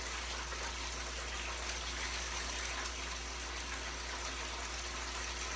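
Bathtub filling from the tap: water gushing steadily into the tub.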